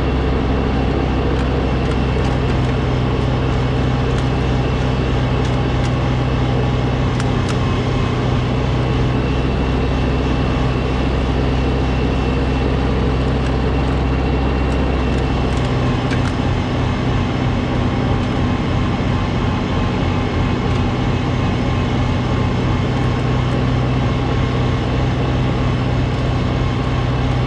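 Snowblower engine running steadily under load; its low drone turns rougher a little past halfway through.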